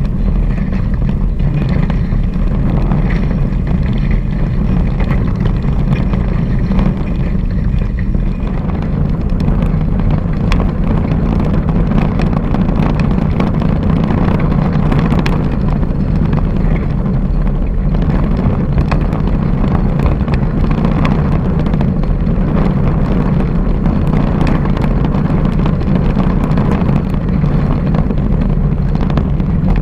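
Steady wind buffeting the microphone, with water rushing and splashing against the hulls of a Hobie 16 catamaran under sail.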